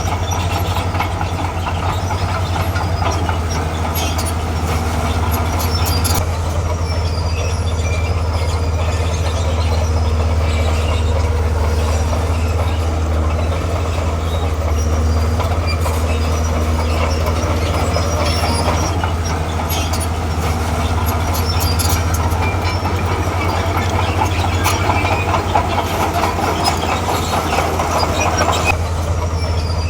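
Komatsu D41P crawler bulldozer working, its diesel engine giving a steady low drone while its steel tracks clatter and squeak as they move.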